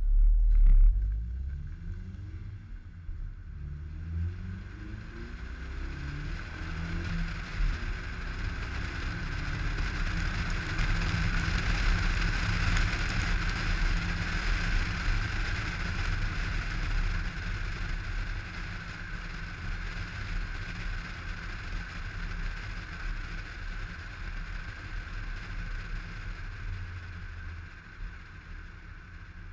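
A 2011 Mazda3's 2.5-litre four-cylinder engine, breathing through a short ram intake, launches hard from a standstill and pulls through the gears of its six-speed manual, its pitch climbing in several rising sweeps. As speed builds, a steady rush of road and wind noise at the low side-mounted camera takes over and slowly eases.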